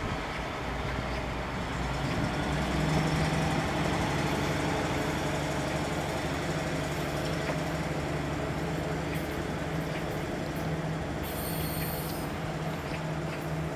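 Korail Mugunghwa diesel railcar pulling out of the station and moving away, its engine running steadily under power with a low drone that builds over the first few seconds and then slowly fades.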